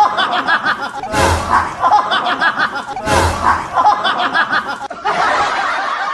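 Canned laughter sound effect: the same short laugh clip repeated three times about two seconds apart, then a different stretch of laughter from about five seconds in.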